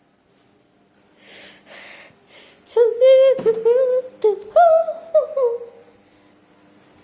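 A high-pitched voice vocalising without words in several short, gliding phrases, after a few breathy sounds.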